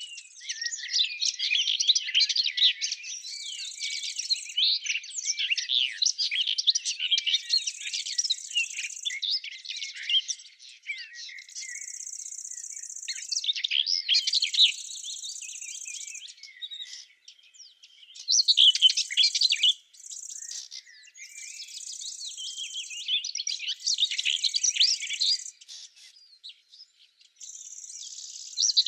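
Songbirds singing in a dense, continuous warble. Over them an insect, such as a bush cricket, gives a high steady buzz in repeated bouts of a second or two.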